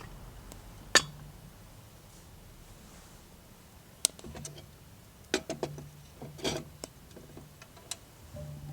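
Scattered sharp clicks and light taps: one loud click about a second in, then a cluster of smaller ones later, over a faint low hum. Guitar music comes in right at the end.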